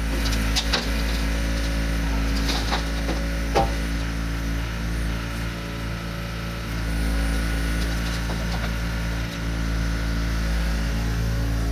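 Dump truck engine idling steadily, with several wooden knocks and clunks, mostly in the first few seconds.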